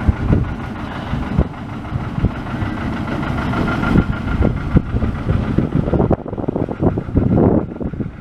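Engine of a narrow-gauge locomotive running, a steady low rumble with irregular knocks.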